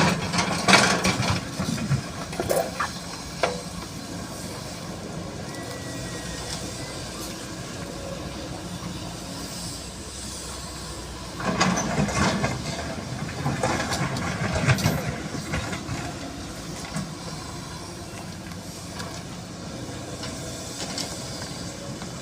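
Sany SY215C hydraulic excavator digging, its diesel engine running steadily. The engine works harder with hissing and scraping at the start and again from about 11 to 15 seconds in.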